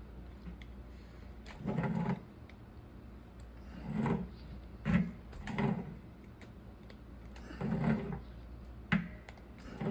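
Plumbing parts and tools being handled: about six short scraping, clunking noises at uneven intervals over a low steady hum.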